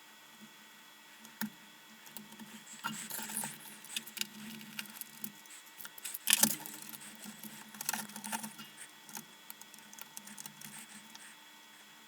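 Hands handling and pulling apart the lantern's housing and parts on a desk: scattered clicks, rustles and light rattles, with one sharper knock about six seconds in.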